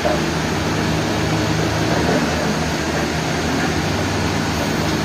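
Sawmill machinery running steadily: a continuous mechanical hum under even noise.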